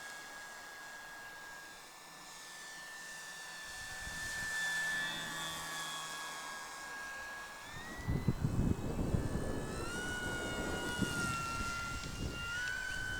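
Durafly Slow Poke RC airplane's electric motor and propeller whining steadily in flight, the pitch stepping up and down as the throttle changes. Wind rumbles on the microphone from about eight seconds in.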